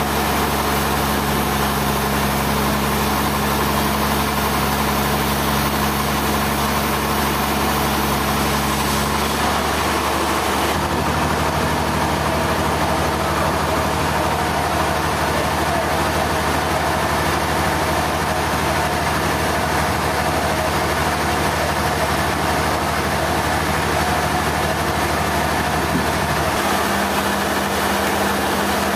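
Sawmill machinery running steadily: a low engine hum under a constant hiss. The hum's pitch changes abruptly twice, about nine seconds in and again near the end.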